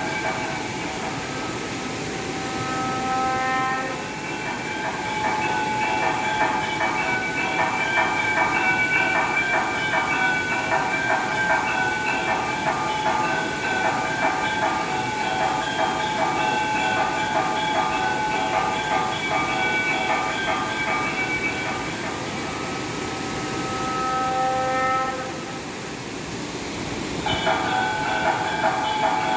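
Brass aarti bells ringing continuously, with rapid repeated clanging and sustained ringing tones. The ringing thins briefly about four seconds in and drops back for a couple of seconds near the end before resuming.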